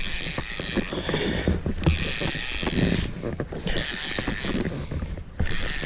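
Spinning fishing reel being cranked in spells, its gears whirring and clicking, as a hooked fish is reeled in.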